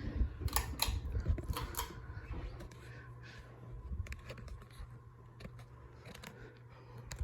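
Ceiling fan running with a steady low motor hum, after a few sharp clicks and rattles in the first two seconds. After about two and a half seconds the sound drops and the hum goes on more quietly.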